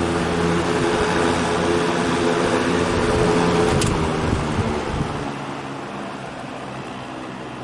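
General Electric W22 box fan running with a steady whir of moving air and an even motor hum. The motor has no buzz, its loose shaded-pole coil having been fixed with varnish. A sharp click comes about four seconds in, and after it the fan sound slowly dies away.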